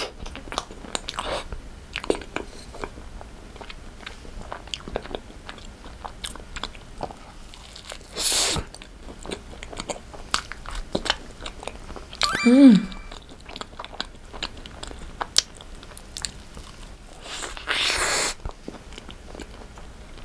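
Close-miked biting and chewing of a vanilla cream puff with a crisp, thick choux shell: a run of small crunches and wet mouth clicks. About halfway through comes a short hummed "mm" that falls in pitch, and there are two short breaths, one about a third of the way in and one near the end.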